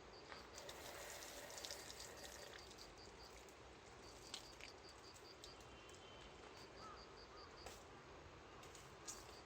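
Near silence with an insect chirping faintly: short trains of evenly spaced high-pitched pulses every few seconds, and a few light clicks.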